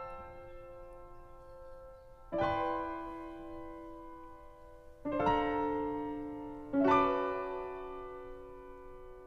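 Slow piano music: a chord struck three times, every two or three seconds, each left to ring and fade.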